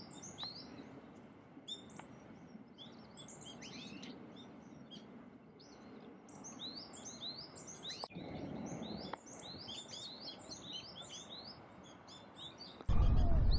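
Small songbirds chirping busily, many short calls overlapping throughout. Near the end, a sudden loud low rumble cuts in.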